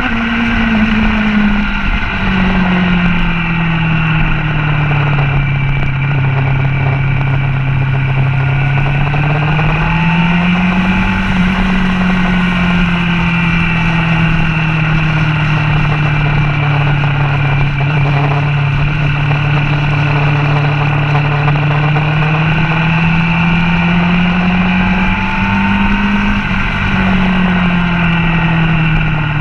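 Motorcycle engine heard onboard at speed, its revs holding steady, then rising and dropping in steps as the rider changes gears and throttle through the corners, with steady wind rush over the microphone.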